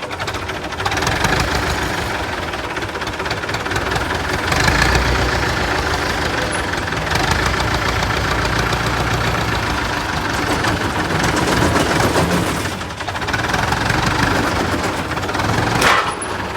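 Forklift engine running under load, its level swelling and easing several times as it works, with a short sharp noise near the end.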